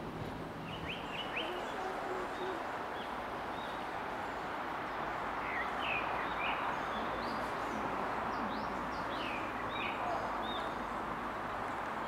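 Birds chirping in short, scattered calls over a steady background noise of the forest.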